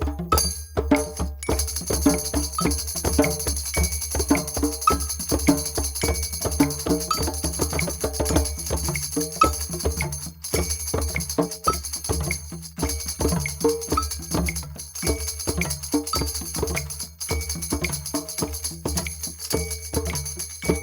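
Drum session: several drums played together in a quick, steady rhythm.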